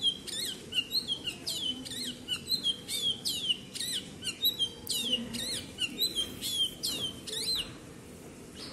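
Small birds chirping: quick, high chirps that drop in pitch, several a second, which stop near the end. Under them is the faint low bubbling of sugar syrup boiling in the pan.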